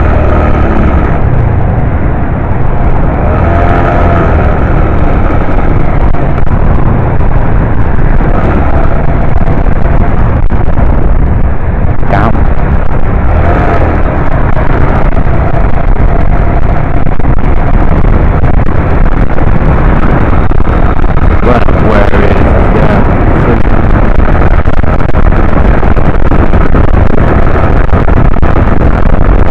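Heavy wind buffeting on the microphone of a camera riding along on a motorcycle at road speed, with the small 125 cc motorcycle engine running beneath it.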